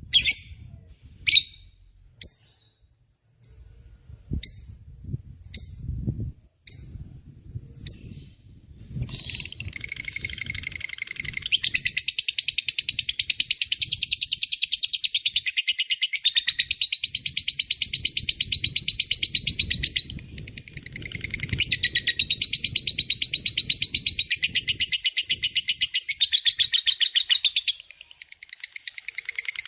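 Lovebird calling: about eight sharp single chirps roughly once a second, then from about nine seconds in a long, fast, rattling chatter of rapidly repeated notes (the 'ngekek panjang'), broken off briefly twice.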